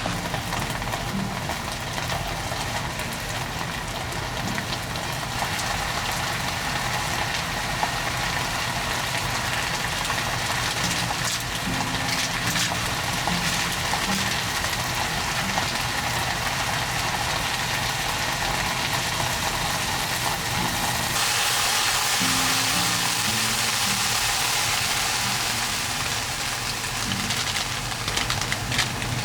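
Steady heavy rain with a low vehicle engine hum beneath it and soft background music; the rain hiss grows louder about two-thirds of the way through.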